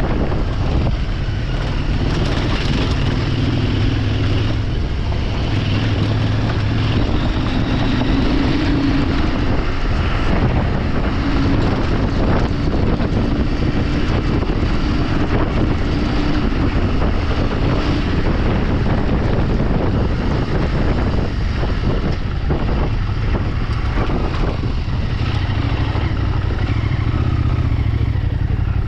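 Motorcycle engine running steadily while riding off-road, with wind noise on the microphone.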